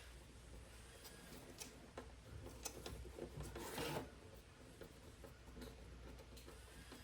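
Faint rubbing and small clicks of a screwdriver driving screws back into a car radio's housing, with a louder rasping scrape about three and a half seconds in.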